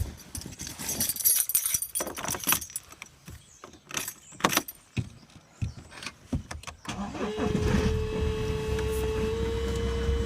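Clicks and rattles of keys and handling, then about seven seconds in a BMW E90 320d's four-cylinder diesel engine cranks and catches on a cold start. It settles into idle with a steady whine over the rumble, which the owner puts down to a pump.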